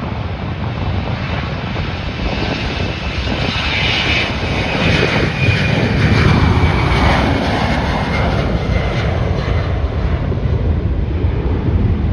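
Airliner passing close by, its engine noise building to a peak about halfway through and then easing, with a high whine that drops in pitch as it goes past. Wind buffets the microphone throughout.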